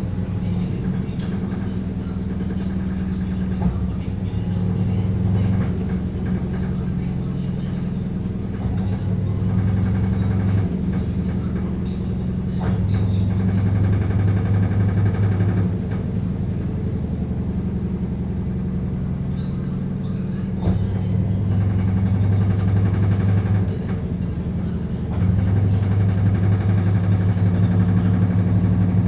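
Sharp washing machine running: a steady electric hum, with a deeper hum that comes on for a few seconds at a time and drops out, over and over.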